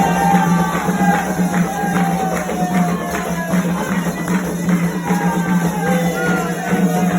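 Candomblé ritual music: hand percussion beating a fast, steady rhythm under a sung chant whose voice glides down in long phrases.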